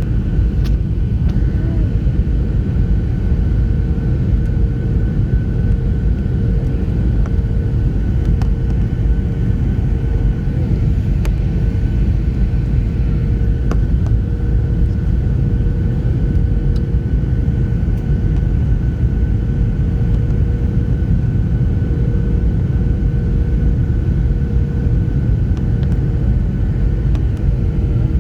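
Steady airliner cabin noise: a loud low rumble with a constant engine hum, heard from inside the passenger cabin.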